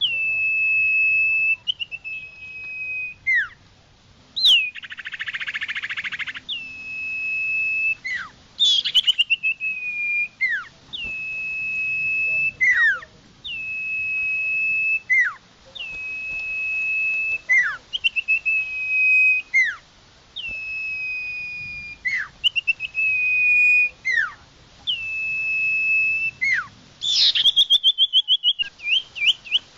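Common iora (cipoh) singing: a long, steady, clear whistle, each one ending in a sharp downward flick, repeated about every two seconds. A short buzzy rasp comes about five seconds in, and a fast rattling trill of quick notes near the end.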